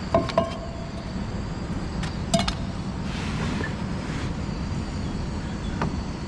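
A few sharp metallic clinks of camping cookware being handled, two close together at the start and another about two and a half seconds in, each ringing briefly, over a steady low rumble.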